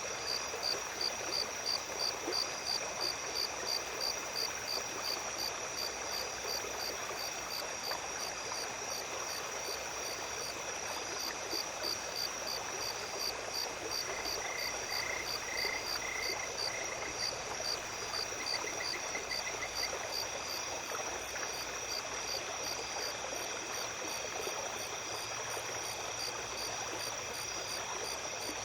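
A small stream running at night with insects calling over it: a steady high trill and rhythmic chirping at about three chirps a second. A short lower trill comes twice around the middle.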